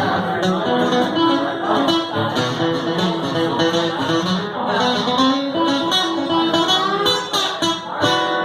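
Guitar playing a country instrumental passage without singing: picked notes over strummed chords.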